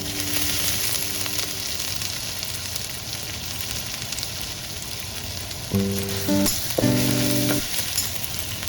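Food frying in hot oil, with a steady, crackling sizzle.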